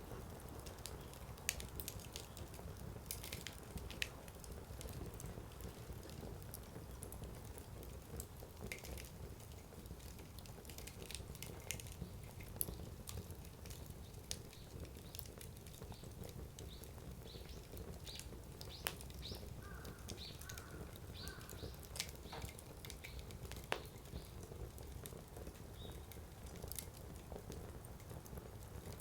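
Wood fire burning quietly, the firewood giving off irregular sharp pops and crackles every second or two over a low steady rumble.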